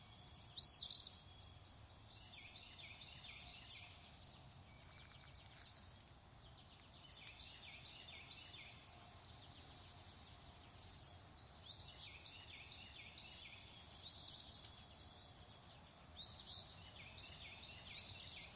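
Several birds calling at once: many short, high chirps and rising whistles, some overlapping, over a faint steady background.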